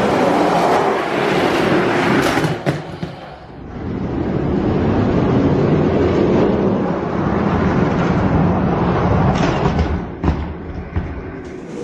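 Die-cast toy monster trucks rolling down a plastic drag-strip track: a steady, dense rattling rumble that dips briefly about three and a half seconds in.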